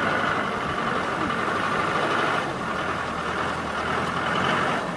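A vehicle's engine running steadily, easing slightly about halfway through and again near the end.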